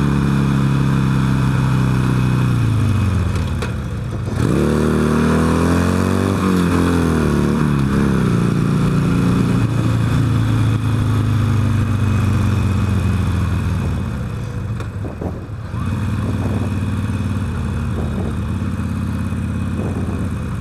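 Motorcycle engine under way, heard through a helmet-mounted microphone with steady wind rush. The engine pitch falls over the first few seconds. About four seconds in it climbs sharply as the throttle is opened hard, then eases and settles into a steady cruise, with a brief dip around fifteen seconds in.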